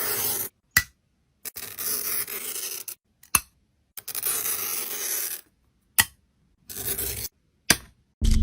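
A series of scratchy scraping or cutting strokes, four of them each lasting half a second to a second, with short sharp clicks between them.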